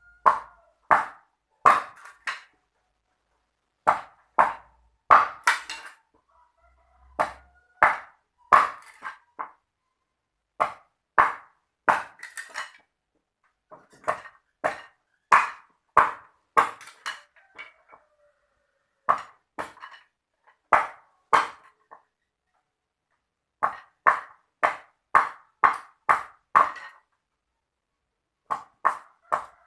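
Repeated sharp strikes on something hard that rings briefly, coming in irregular runs of a few blows with short pauses between.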